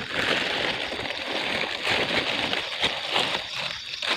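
Plastic bag crinkling and rustling, handled continuously while it is pulled over a dragon fruit flower to cover it.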